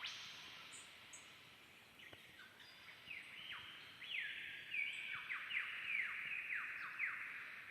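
Birds calling in a forest: a run of harsh, quickly repeated calls that each fall in pitch, growing louder over the last few seconds.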